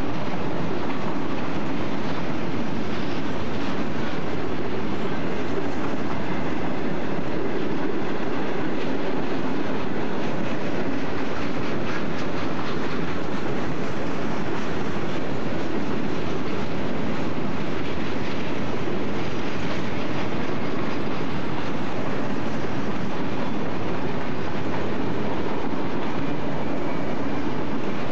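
Freight train of boxcars rolling past at close range: a steady rumble of steel wheels on rail with a continuous clickety-clack.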